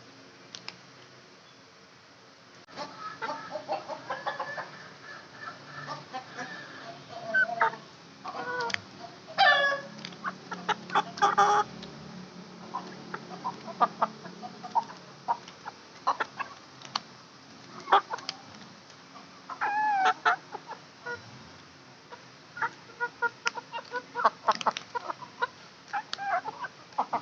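Aseel chickens clucking, with short pitched calls that rise and fall and scattered sharp clicks, starting a few seconds in.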